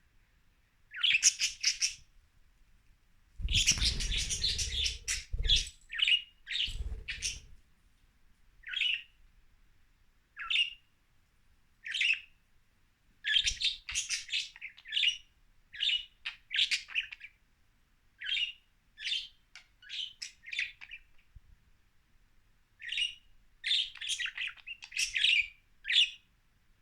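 Budgerigars chirping in short, quick calls with pauses between them, plus a burst of low rustling or knocking about four seconds in and again shortly after.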